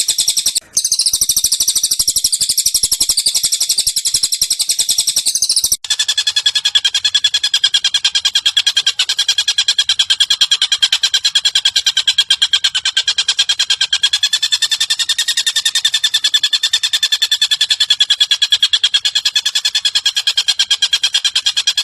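Recorded bird calls from a songbird training track: a fast, continuous trill of rapidly repeated notes, high and thin at first. After a sudden break about six seconds in, a lower, steadier trill runs on.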